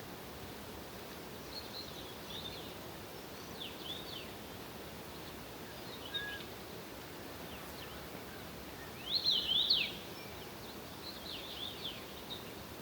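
A songbird singing short phrases of quick, sharply sweeping chirps, the loudest phrase about nine seconds in, over a steady outdoor background hiss.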